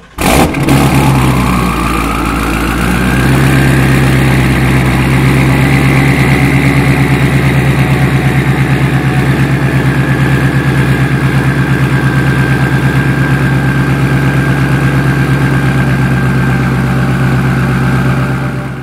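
A twin-turbocharged Shelby GT350's 5.2-litre flat-plane-crank V8 starts with a loud flare, then settles into a steady, pulsing idle through a straight stainless exhaust with no mufflers. A faint whine rises over the first few seconds and then holds. The sound fades near the end.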